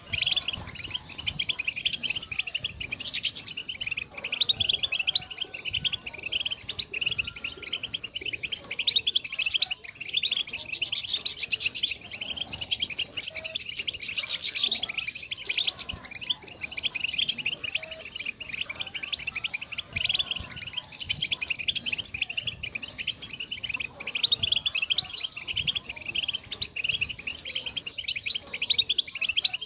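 European goldfinch singing: a continuous run of fast, high-pitched twittering chirps and trills.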